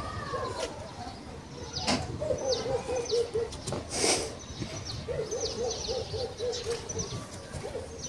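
Birds calling: two rapid bubbling series of low cooing notes, with short, sharp high chirps scattered throughout. A brief burst of noise, the loudest sound, comes about four seconds in.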